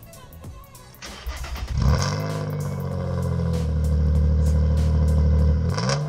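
Nissan Z's V6 cranking about a second in and catching with a flare of revs just before two seconds, then idling loud through freshly fitted test pipes, with the catalytic converters removed. A quick throttle blip near the end.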